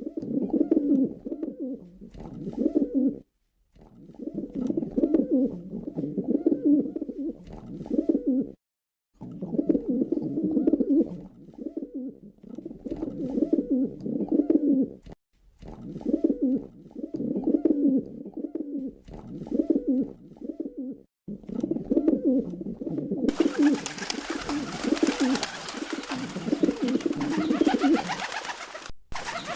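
Pigeons cooing over and over in low, throaty one-to-two-second phrases, broken by a few sudden cuts. From about three-quarters of the way through, a steady hiss runs behind the cooing.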